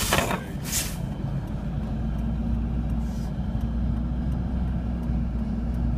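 Steady low rumble inside a vehicle's cabin, from its running engine and a dust-storm wind buffeting the vehicle. A loud hiss of noise in the first second, then faint scattered ticks.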